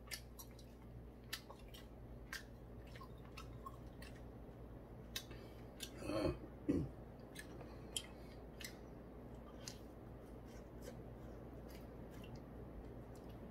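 A person chewing fried chicken wings close to the microphone: scattered moist clicks and smacks of biting and chewing. About six seconds in comes a brief louder sound, twice.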